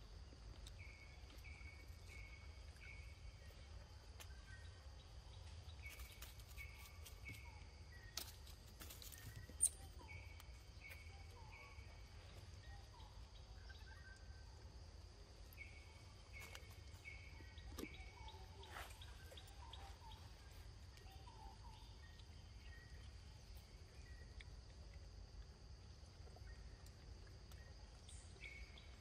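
Faint outdoor ambience: a bird repeats a phrase of about four quick chirps every few seconds over a steady high-pitched whine. A couple of sharp clicks come about a third of the way in.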